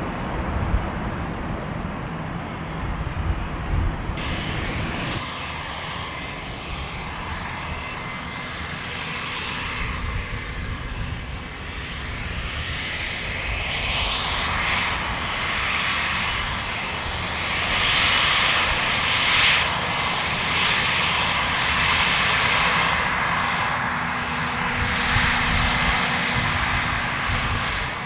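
Aircraft engines running, with steady tones over a noisy rush that grows louder in the second half.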